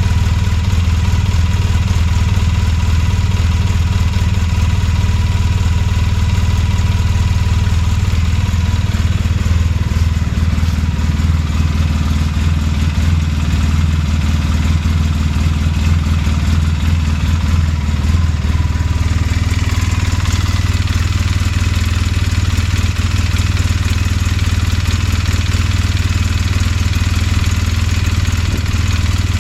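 2007 Polaris Sportsman 800 ATV's twin-cylinder engine idling steadily, with a clanking, tapping noise from the right side of the engine. On this nearly new machine the noise may be normal oil pump noise or a sign of a failing water pump.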